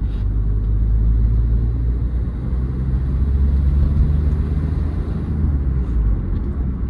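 Hyundai Verna 1.6 turbo diesel engine and road rumble heard from inside the moving car. The engine note climbs through the middle seconds as the car gathers speed, then eases off near the end.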